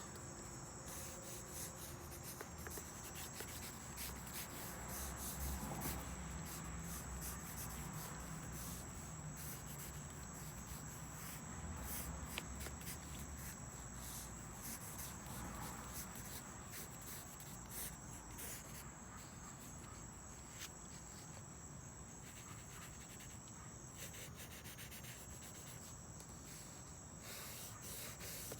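Scratching of drawing strokes on paper as a quick sketch is made, over a steady high-pitched trill of crickets.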